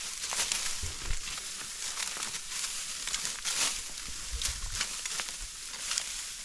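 Dry wheat stalks rustling and crackling irregularly as they are cut and gathered by hand, with many short, sharp crackles.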